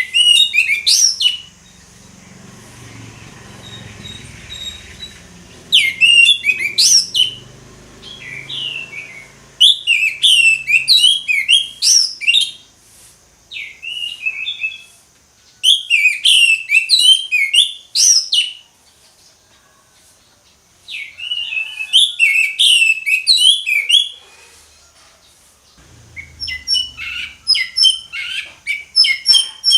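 Orange-headed thrush in full song: about eight loud phrases of rapid, varied high whistles and trills, each lasting one to three seconds, separated by short pauses.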